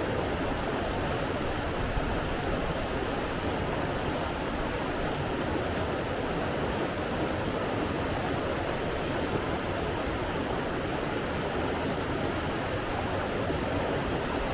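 Steady, even rush of flowing water, with no swells or breaks.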